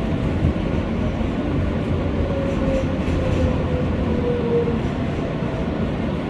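R143 subway train on the NYC L line, heard from on board: a steady low rumble, with a faint whine that slowly falls in pitch around the middle.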